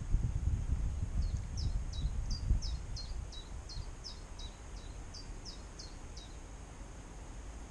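A small songbird singing a string of about a dozen short, high notes, roughly two to three a second, stopping about six seconds in. Under it runs a low rumble that fades over the first few seconds.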